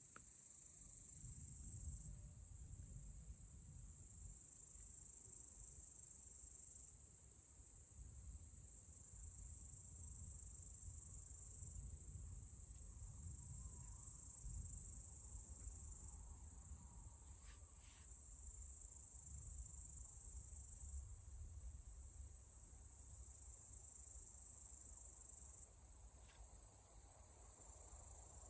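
Steady, faint, high-pitched insect chorus, likely crickets, with a low, wavering rumble underneath and a few faint clicks.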